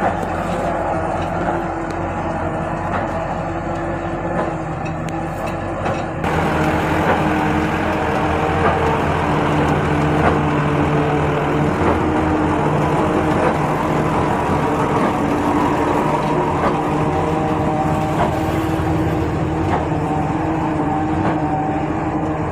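Tractor engine running with a steady drone, getting louder about six seconds in.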